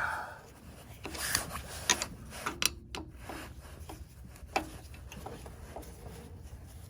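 Phillips screwdriver turning a screw out of a snowblower's carburetor mount: metal scraping and rubbing with several sharp clicks.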